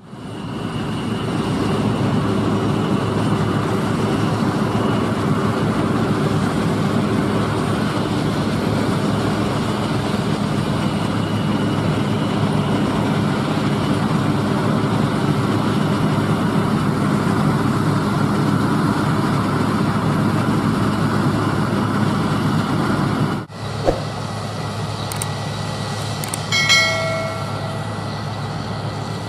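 Combine harvester working a barley field, its engine and threshing machinery running steadily. About 23 seconds in the sound cuts to another steady machine drone with a high whine, a few clicks and a short pitched tone.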